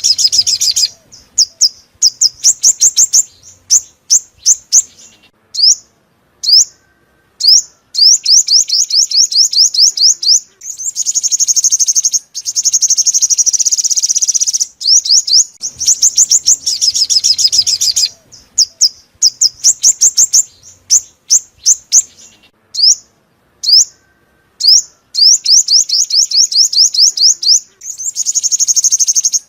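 Sunbird song, the purple-throated, yellow-bellied bird sold as the 'five-colour sunbird': loud, rapid, high-pitched chirps and fast trilled runs in phrases with short pauses between them. The same sequence repeats about halfway through, as a looped lure recording.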